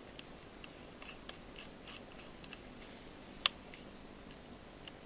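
Faint scattered ticks of a small pentalobe screwdriver working the bottom screws of an iPhone 5, with one sharp click about three and a half seconds in.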